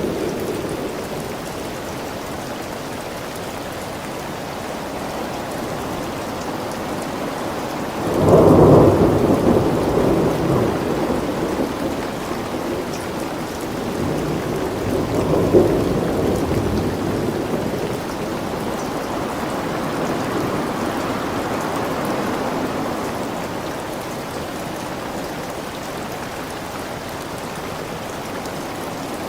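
Steady rain falling, with thunder. A loud rumble breaks in about eight seconds in and fades over several seconds. A second rumble with a sharp crack comes around halfway.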